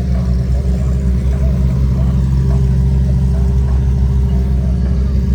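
A car's engine idling with a steady, loud low exhaust rumble.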